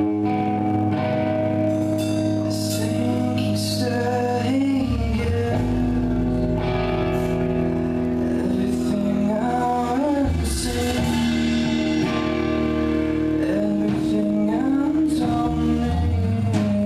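A live band starts a song: amplified guitar, a low bass line and drums with cymbal crashes, with a voice singing over it.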